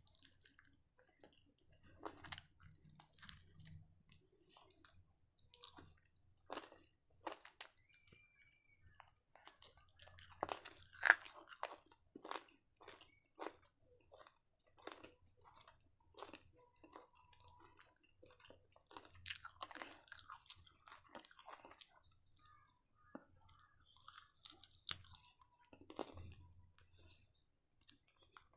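A person chewing and biting into crisp deep-fried chicken kebab: irregular wet chewing with sharp crunches, the loudest crunch about eleven seconds in.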